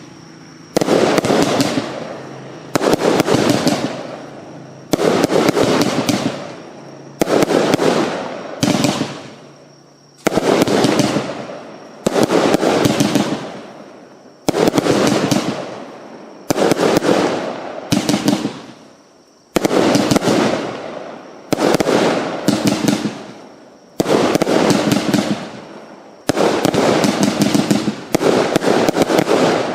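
Big Rhino firework cake firing shot after shot, about one every two seconds. Each shot is a sharp bang followed by a fading crackle.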